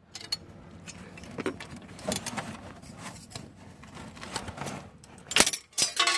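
Metal strip being worked and handled while it is bent into a bracket: light clinks and scraping, with a few sharper metal knocks about five and a half seconds in.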